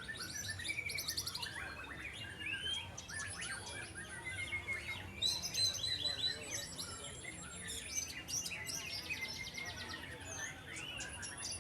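White-rumped shama song: a dense, continuous run of varied whistles, rapid trills and chattering phrases, with several phrases overlapping.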